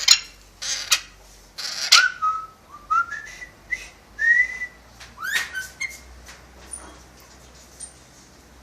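Pet parrot whistling: three harsh, noisy calls in the first two seconds, then a run of short whistled notes that slide up and down, fading to a few faint sounds after about six seconds.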